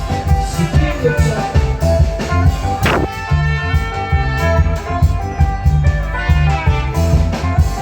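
Live band playing an instrumental passage: guitar over a steady, repeating bass line, with one sharp hit about three seconds in.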